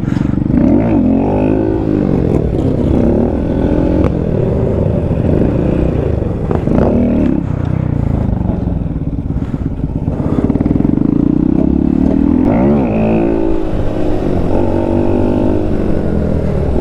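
Motorcycle engine running under way, revving up and dropping back several times as the bike accelerates and shifts.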